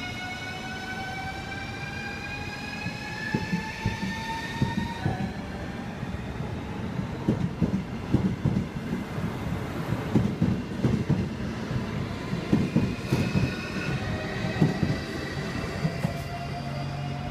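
Train wheels clacking over rail joints in a rapid, uneven run of knocks. A rising whine is heard in the first few seconds, and steady tones return near the end.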